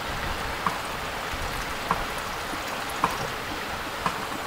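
Steady rushing outdoor background noise, with four faint light clicks spaced about a second apart.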